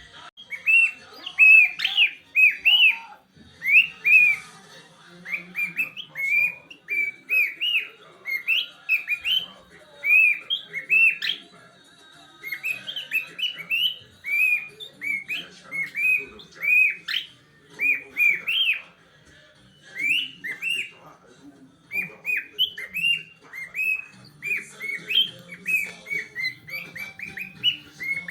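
Excited male songbird in breeding condition singing a long, rapid song of short arched whistled chirps, several a second, in phrases with brief pauses.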